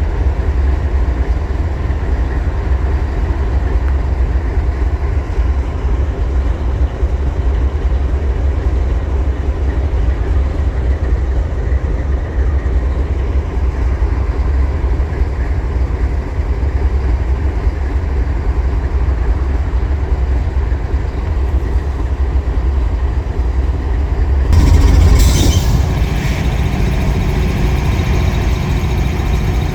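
Freight train rumbling by at close range, a steady heavy low rumble. About 25 seconds in, a sudden louder burst of noise lasts a second or so.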